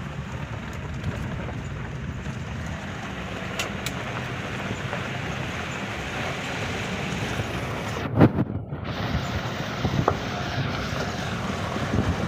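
Wind buffeting the microphone over the steady low rumble of a moving vehicle, with a sharp thump about eight seconds in and a few lighter knocks after it.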